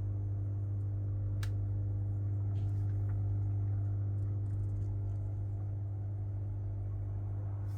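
Electrolux PerfectCare 800 washing machine making a steady, unchanging low hum, the abnormal loud noise the owner is documenting, with a couple of faint clicks.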